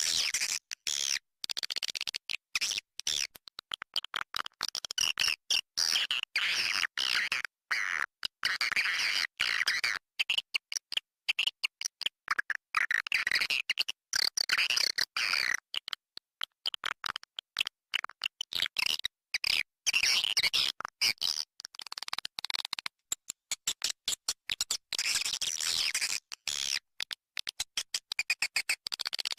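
Recorded swiftlet calls: dense high chittering and twittering of many swiftlets, cut by frequent sudden short gaps of silence. It is a swiftlet lure call track, played to draw swiftlets into a nesting house.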